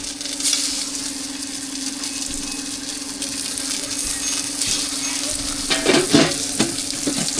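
Food sizzling on a hot cooking surface, with metal clinks and scrapes of utensils and a steady hum underneath.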